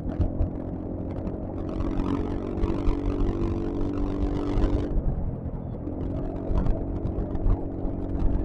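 Yamaha XMAX single-cylinder scooter engine running at steady cruising speed, with low wind rumble on the helmet microphone. The engine note eases about five seconds in and picks up again a second later.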